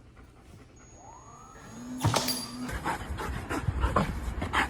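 A Belgian Malinois moving about: quiet at first, then about two seconds in a sudden sound with a short low tone, followed by scuffling and clicking noises.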